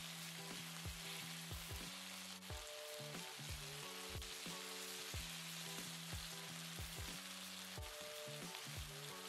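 Chicken thigh pieces sizzling in hot oil in a nonstick wok on high heat, with a steady frying hiss. Background music with a beat plays underneath.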